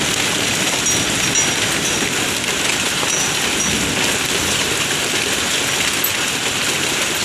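Hailstorm: rain and hail falling steadily, a dense, even hiss.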